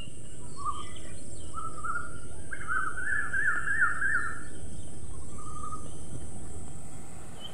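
Songbirds singing in a pine forest: short warbling phrases, with the loudest run of rapid trills about three seconds in, over a steady low outdoor rush.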